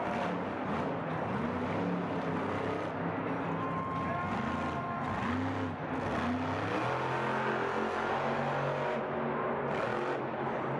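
Monster truck engine revving, its pitch rising and falling several times over dense, steady noise.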